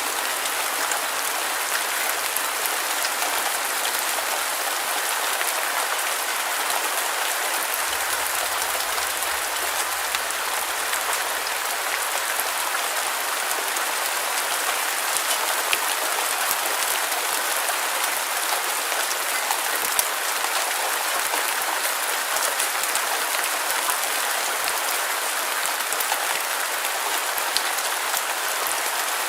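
Steady, even rain noise with scattered fine drop ticks and almost no low end.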